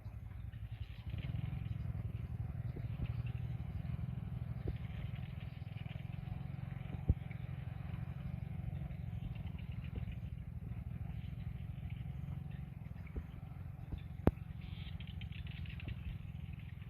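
Small vehicle engine running steadily at low revs, with two sharp clicks partway through.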